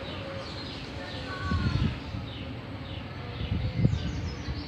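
Birds chirping in short, repeated falling calls, over a low rumble, with two dull low thumps, the second about four seconds in, that are the loudest sounds.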